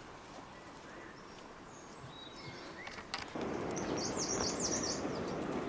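A small bird singing a quick, high warbling phrase about four seconds in, after a few faint chirps. Under it a steady rushing noise that gets suddenly louder a little after three seconds.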